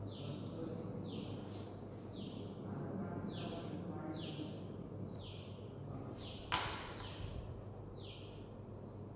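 A bird repeatedly giving a short, high, descending call about once a second, over a steady low hum. A single sharp tap, chalk striking the blackboard, about two-thirds of the way through.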